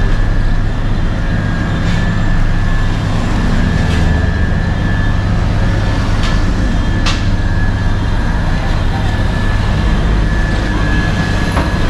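Heavy vehicle engines running steadily, a constant low rumble, with a few short sharp clicks around the middle.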